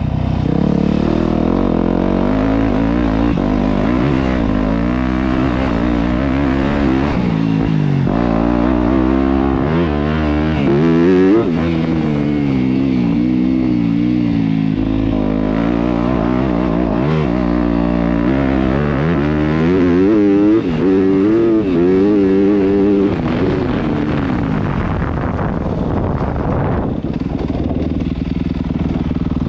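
Yamaha YZ250F dirt bike's 250cc four-stroke single-cylinder engine being ridden, its pitch rising and falling again and again as the throttle is opened and closed. The engine sound fades to quieter in the last few seconds.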